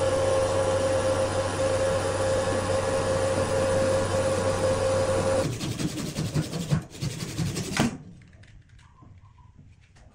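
Electric power-tool motor running with a steady whine, starting abruptly. About five seconds in it turns rougher and uneven, then cuts off suddenly near eight seconds.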